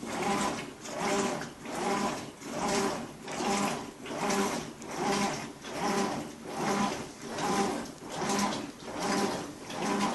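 Whirlpool Cabrio top-load washer running with a loud, rhythmic pulsing hum. It swells and fades about five times every four seconds, each swell a pitched whirring, which the owner questions as possibly not normal.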